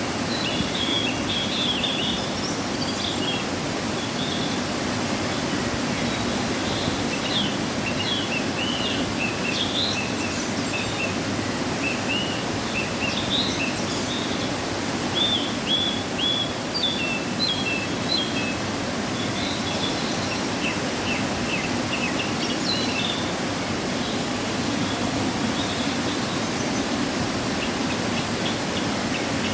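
Waterfall rushing steadily, running full after rain. Small birds chirp over it with many short, high calls.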